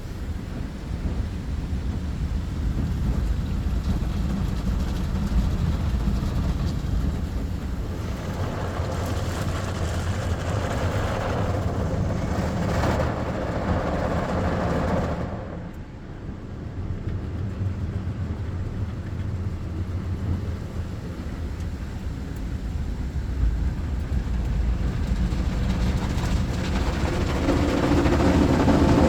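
Ryko SoftGloss Maxx 5 automatic car wash running its cycle, with a steady low machinery rumble. About eight seconds in, a loud spraying hiss swells, then cuts off suddenly around fifteen seconds; the wash grows louder again near the end.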